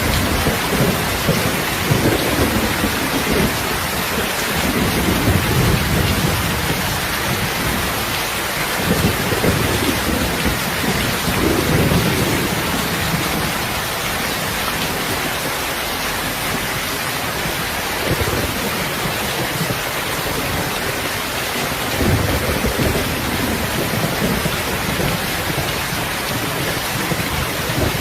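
Steady rain hissing, with low rumbling swells rising and fading every few seconds underneath.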